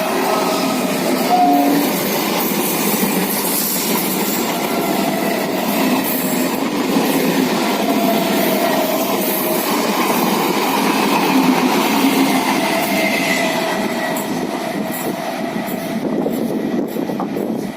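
Indian Railways EMU electric passenger train running past, a loud steady rush of wheels on rail with faint held squealing tones.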